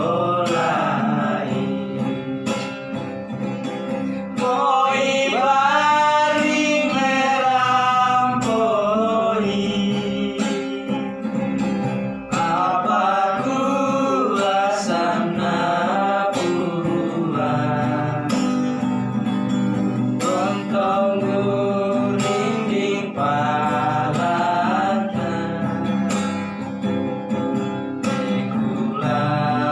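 A voice singing a song over strummed acoustic guitar.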